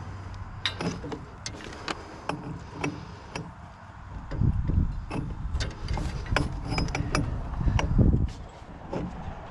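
Metal clicks and clanks of a mower's PTO drive shaft being worked and turned to line up on the tractor's PTO stub, with a scatter of sharp ticks and two louder low rumbles, about halfway through and near the end.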